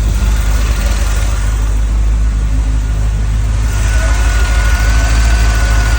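1984 car's engine idling steadily at operating temperature, its coolant running hot at around 230°F before the electric cooling fan has cut in. A thin steady whine comes up about four seconds in.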